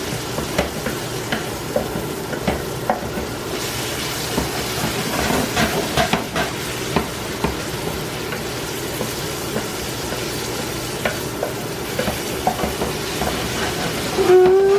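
Onions, mushrooms and chopped garlic sizzling in butter on high heat, with a steady hiss. A spoon stirs them, clicking and scraping against the pan at irregular moments.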